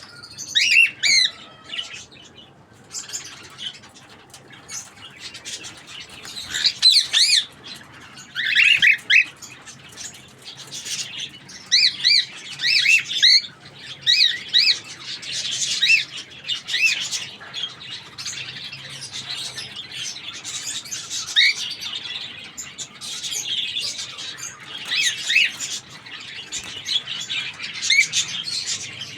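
Cockatiels chirping and squawking: many short whistled calls that rise and fall, coming in bunches throughout, with a couple of sharp clicks.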